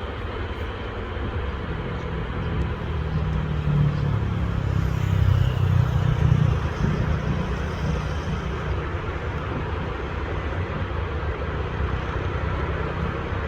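KiHa 183 diesel railcar running with a steady low rumble, swelling louder for a few seconds around the middle before settling.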